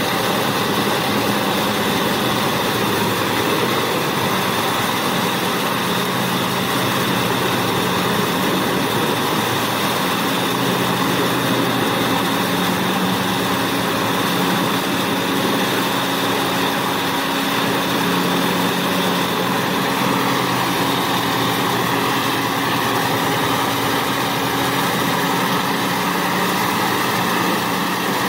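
Large wood chipper running steadily: a continuous heavy engine and rotor drone with a steady high whine.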